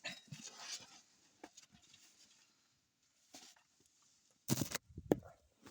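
Irregular knocks and clicks from a Hyundai Porter's front suspension, the knocking of a worn ball joint. The loudest knocks fall near the end, a short cluster and then one sharp click.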